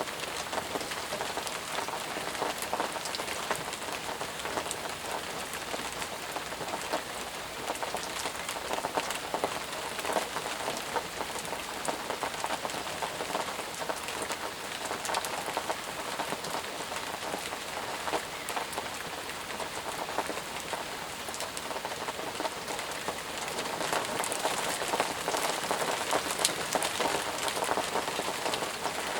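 Intense, steady rain: a dense patter of drops that swells a little louder near the end.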